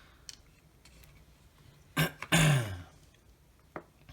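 A man clearing his throat once, about two seconds in: a short sharp burst, then a voiced sound falling in pitch. A few faint clicks sound around it.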